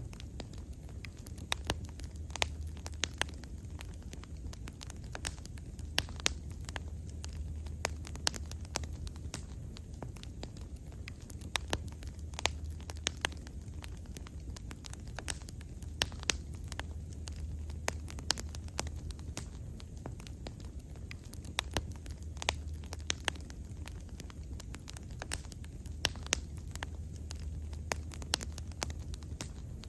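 Wood bonfire crackling, with irregular sharp pops and snaps several times a second over a steady low rumble.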